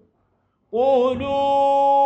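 A man reciting the Quran in melodic tajweed style, silent at first, then coming in about 0.7 s in on one long held note at a steady pitch as he begins a new verse.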